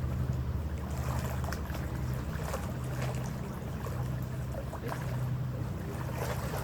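Harbour ferry's engines running with a steady low drone, with water rushing and splashing along the hull as the ferry moves.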